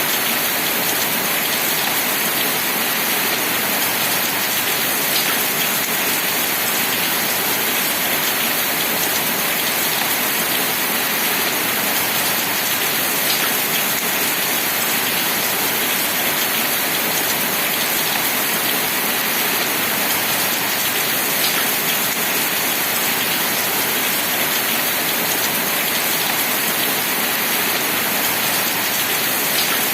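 Steady rain falling, an even hiss with no pauses. A faint drop tick stands out about every eight seconds.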